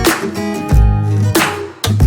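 Background music: an upbeat track of strummed acoustic guitar over bass notes and a steady beat.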